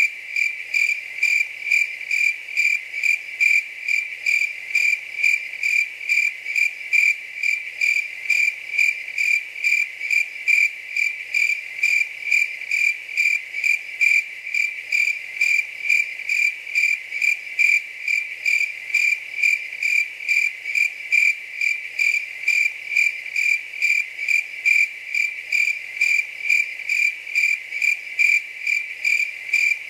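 A cricket chirping in a steady, even rhythm, about two high, pure-pitched chirps a second.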